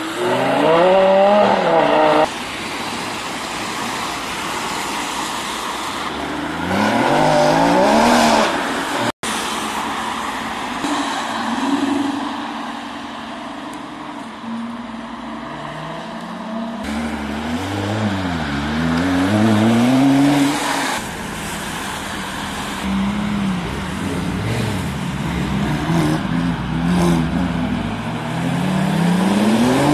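Sports car engines revving hard as several cars pull away one after another, among them an Aston Martin Vantage and a Porsche 911 Turbo. The revs rise repeatedly with gear changes, and there are throttle blips that rise and fall around the middle.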